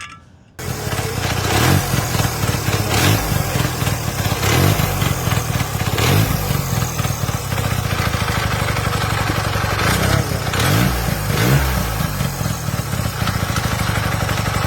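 Hercules W2000's single-rotor Sachs Wankel engine idling, with several short blips of the throttle; it clanks around at idle and sounds like it's going to fall apart, which the owner puts down to the loose timing advancer built into the flywheel.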